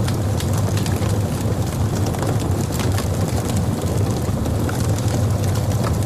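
Wood logs burning in a fireplace: a steady low rumble of the fire with frequent small crackles and pops scattered throughout.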